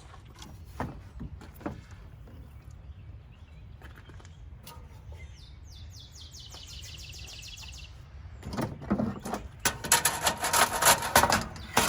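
Metal parts of a tankless water heater being handled while it is dismantled. Scattered light clicks are followed by a quick run of rapid high ticks, then louder clattering and knocking of metal for the last few seconds.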